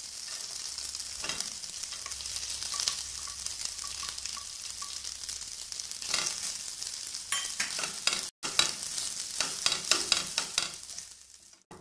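Grated fresh corn sizzling as it roasts in hot ghee in a nonstick frying pan, with a wooden spatula scraping and stirring it; the stirring strokes come quicker and more often in the second half.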